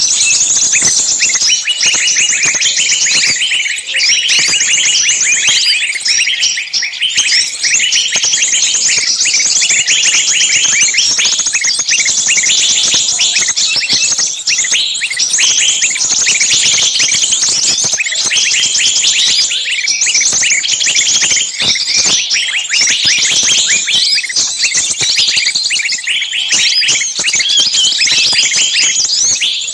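Many birds chirping at once in a dense, unbroken chorus of quick high calls.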